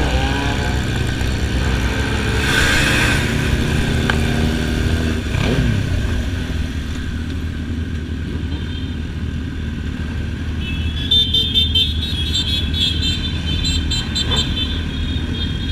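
Motorcycle engines running with steady road and wind rumble, the engine pitch rising and falling in the first few seconds. Past the middle, a vehicle horn sounds in a series of short toots.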